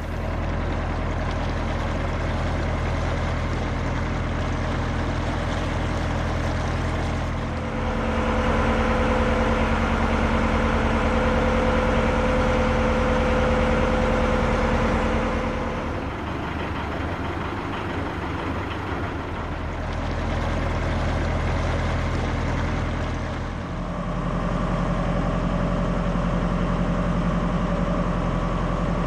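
Narrowboat's diesel engine running steadily, its chugging tone shifting abruptly several times as the engine note changes between stretches of cruising.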